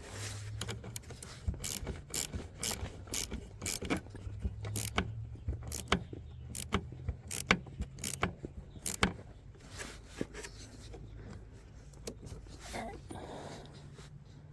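Ratchet wrench clicking in quick back-and-forth strokes as a fastener is tightened, about two to three clicks a second, stopping about nine or ten seconds in.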